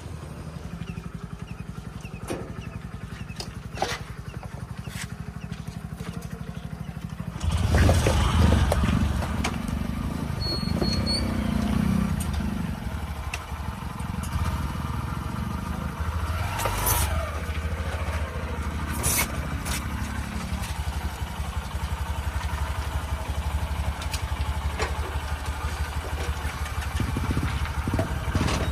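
Tractor engine running with a steady low pulse, getting louder about seven and a half seconds in, with a few sharp knocks over it.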